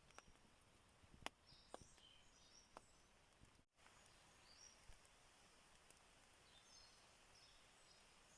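Faint, scattered bird chirps over a quiet background hiss, with a few soft clicks in the first three seconds.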